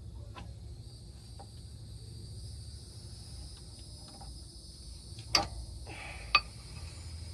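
A few light clicks and clinks of parts and tools being handled, with two sharper clicks about a second apart near the end, over a steady low hum.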